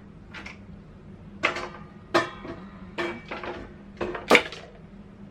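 Household items being handled and set down in a cabinet: about six separate knocks and clinks, a couple of them with a brief ring.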